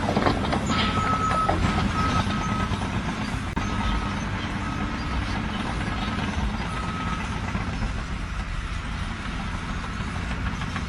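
A heavy engine running steadily, with a faint high tone sounding in short broken beeps for the first several seconds.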